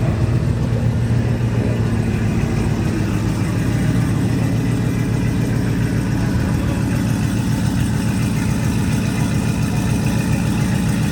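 A car or truck engine idling steadily close by, its sound low-pitched and even.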